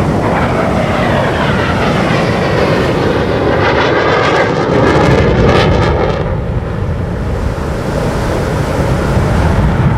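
Jet roar of Thunderbirds F-16 Fighting Falcons passing the crowd, the pitch sliding down in the first few seconds. The roar eases a little after about six seconds and builds again near the end.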